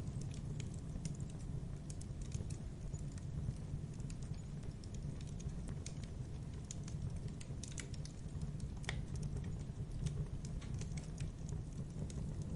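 Fireplace fire crackling: irregular sharp pops and snaps over a steady low rumble of flames.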